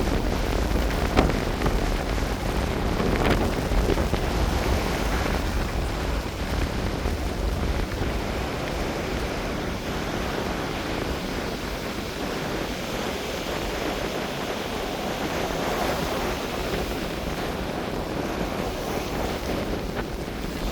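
Wind blowing across the microphone over waves washing on a beach. A heavy low wind rumble fills the first part and eases off about eight seconds in.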